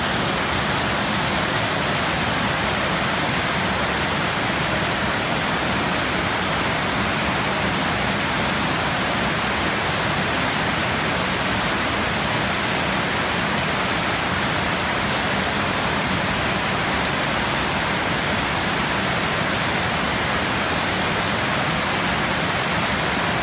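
Floodwater rushing in a loud, steady, unbroken roar of water.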